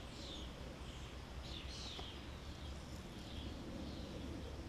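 Faint birds chirping, a scatter of short downward-sweeping calls, over a steady low outdoor background rumble.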